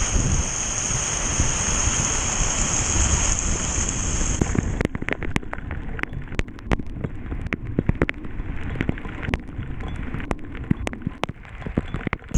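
A sudden rain storm: heavy rain pouring with a dense, steady hiss. About five seconds in the hiss drops away, leaving large drops striking a hard surface close by as separate sharp ticks.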